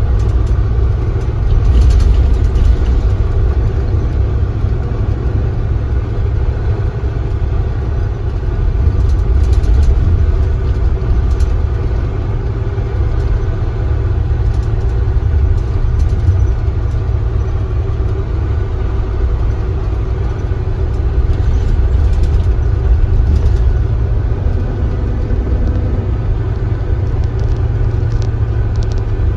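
Kia Granbird Sunshine coach's engine running steadily: a deep rumble under an even engine note, with no clear rise or fall in pitch.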